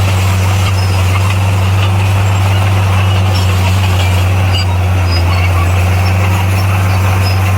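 Bulldozer's diesel engine running steadily, a deep, even drone.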